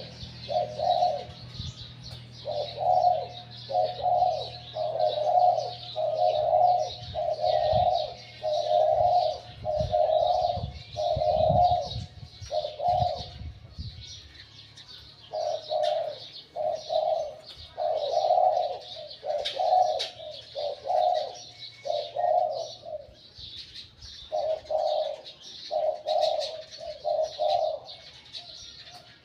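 Spotted dove (decoy bird) cooing in repeated phrases of short, low coos, pausing briefly partway through; its voice is medium-to-deep. Small birds chirp faintly in the background.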